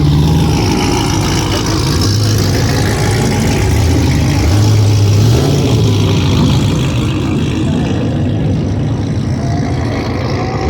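Car engines running as cars arrive and drive past, with a low engine note that shifts up and down in pitch over a steady wash of road and exhaust noise.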